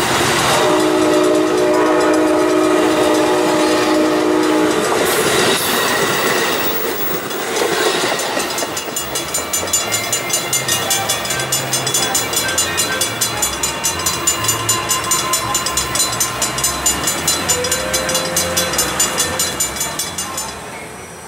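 A passenger train's horn sounds a long chord of several notes for the first five seconds while bilevel railcars roll past with wheel clatter. Then a grade-crossing bell rings steadily, a little over two strokes a second, and stops shortly before the end.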